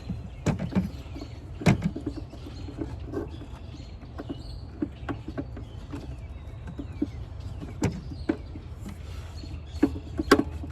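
Scattered clicks and knocks of a hand wrench and tools working on a stubborn bolt in a truck's engine bay, with a steady low hum underneath.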